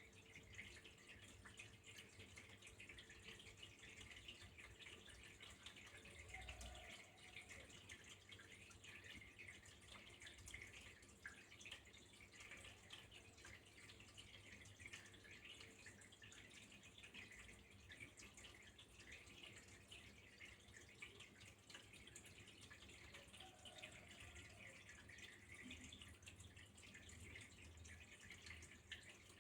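Faint, steady trickle of running water with a fine dripping, splashing texture.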